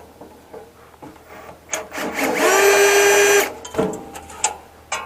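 A small electric motor whirs for about a second, rising briefly in pitch as it spins up and then stopping suddenly. Scattered clicks and knocks of handling parts and tools come before and after it.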